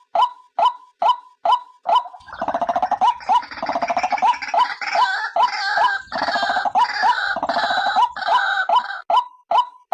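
White-breasted waterhen calling: a short note repeated about three times a second, breaking about two seconds in into a dense run of rapid gurgling, croaking calls, and returning to the repeated notes near the end.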